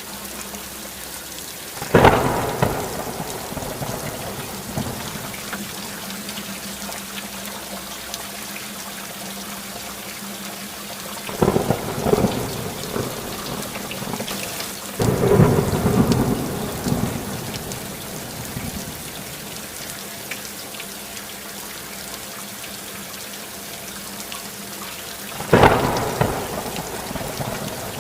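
Steady rain falling, with four claps of thunder: each starts suddenly and rolls away over a few seconds, about two seconds in, twice in the middle and once near the end.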